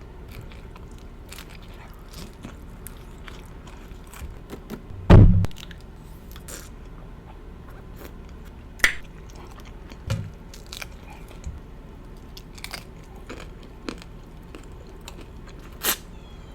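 Biting and chewing a chili cheese fries taco, with scattered crunches and sharp mouth clicks. There is a louder low thud about five seconds in, and a few sharper crunches later.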